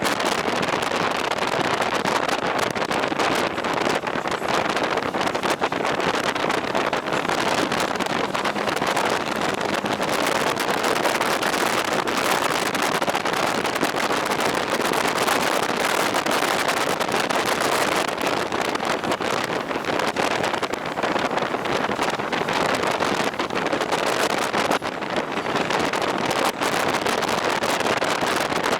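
Steady rush of wind over the microphone while riding a moving motorcycle, with the machine's running and road noise beneath it.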